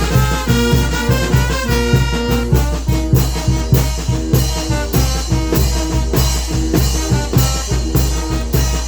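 Mexican banda de viento, a brass and wind band with drums, playing a lively tune over a steady, quick beat.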